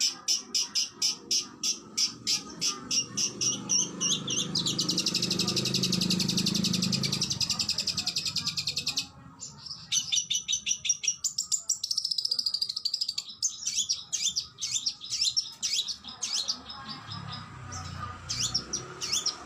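Oriental magpie-robin (kacer) singing: rapid strings of sharp, high repeated chirps, a fast rattling trill that cuts off suddenly midway, then varied whistled phrases and chirps.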